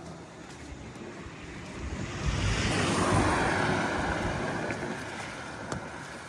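A vehicle driving past on a rain-wet road: tyre hiss and engine rumble swell to a peak about three seconds in, then fade.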